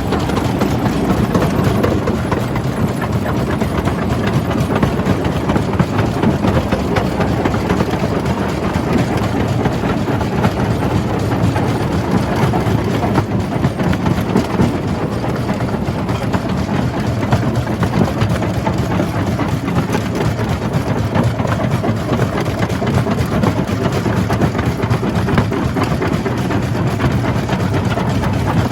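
Jaw crusher running and crushing rock: a steady heavy rumble with a dense, continuous clatter of stone breaking and rattling.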